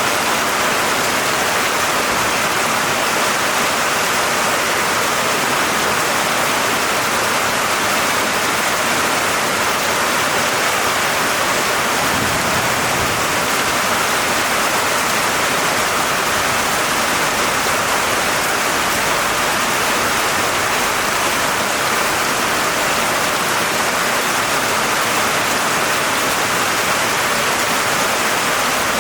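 Steady rain, an even, unbroken rushing hiss.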